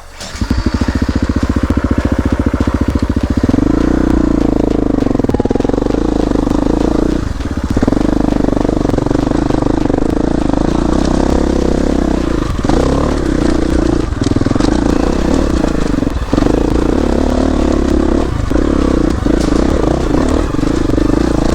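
Dirt bike engine riding a trail: slow, distinct firing pulses for the first few seconds, then pulling harder at higher revs, with brief dips as the throttle is rolled off every few seconds.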